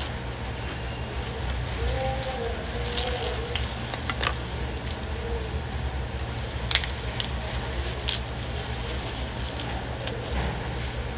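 Crisp lettuce leaves being bitten and chewed: scattered crunchy clicks over a steady background hum.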